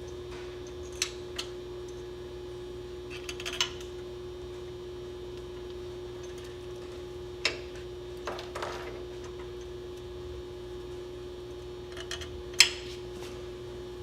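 Scattered sharp metallic clinks and taps from bolts and hand tools as a fuel pump is bolted onto its steel mounting brackets, the loudest near the end, over a steady hum.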